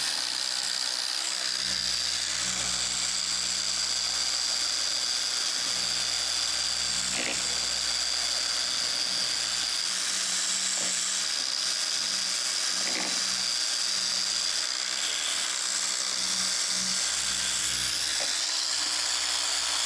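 Dual-action car polisher running steadily with a high whine as it compounds paint, then winding down right at the end.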